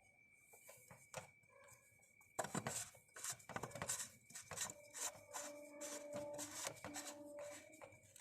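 A quick run of clicks and scraping rubs, sparse at first and then dense from about two seconds in, over a faint steady high-pitched tone.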